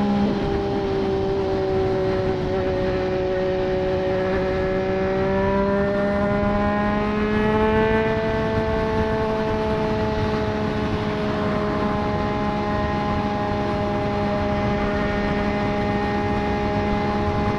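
2024 Triumph Street Triple 765 RS's inline three-cylinder engine through a Racefit Growler full exhaust system, cruising under steady throttle. Its pitch eases down, climbs a little around the middle, then slowly settles again, over a steady rushing noise.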